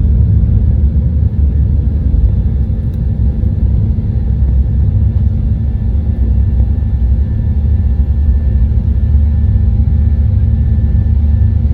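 Jet airliner cabin noise: a steady, loud rumble of engines and airflow with faint steady whines above it.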